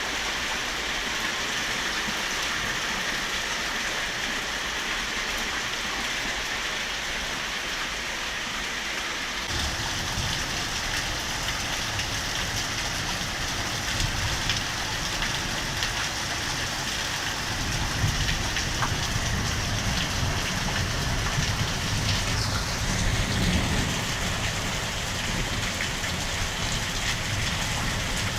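Heavy rain pouring down and splashing on surfaces, a steady hiss. About ten seconds in, a low rumble joins and stays underneath.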